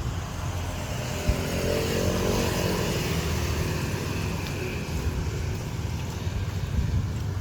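A motor vehicle's engine passing on the street, swelling and fading in the first half, over wind rumbling on the microphone.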